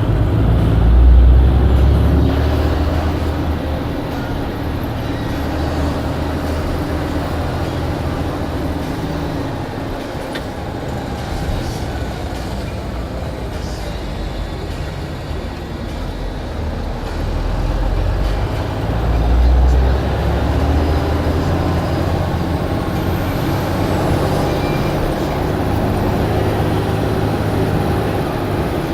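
Blue Bird All American bus's diesel engine running steadily, swelling louder about a second in and again around eighteen to twenty seconds as the bus pulls harder.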